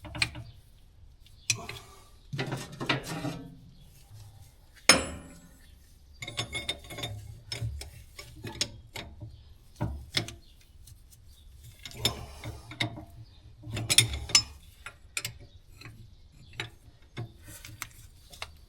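Irregular metallic clicks, clanks and scrapes of hand tools and a hydraulic hose fitting being worked into place, with a sharp knock about five seconds in.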